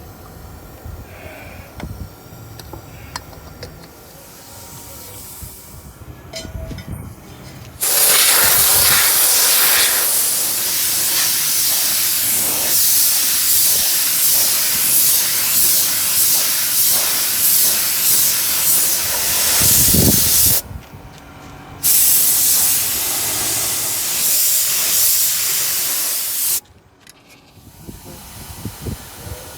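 Aerosol spray can hissing in two long bursts, the first about thirteen seconds and the second about five, with a short break between; both start and stop abruptly. Before the spraying, only faint handling noises.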